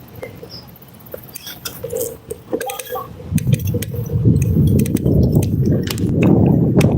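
Light clicks and clinks of handling, then from about three seconds in a loud, uneven low rumble of wind buffeting the microphone as the bike gets moving.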